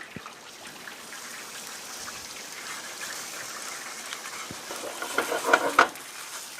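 Sausage-grease and flour roux sizzling steadily as it cooks down in a very hot cast iron skillet, with a whisk scraping and clattering against the pan near the end.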